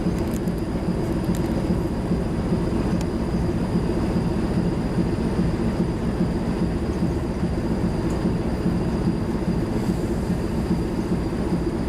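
Ship's diesel machinery running steadily under way on a sea trial: a dense, even low rumble with a faint steady high whine above it.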